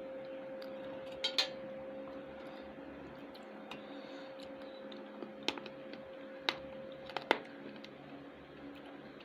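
Quiet eating at a plate: a few separate sharp clicks and clinks of a meal being eaten, over a steady faint hum that stops about seven seconds in.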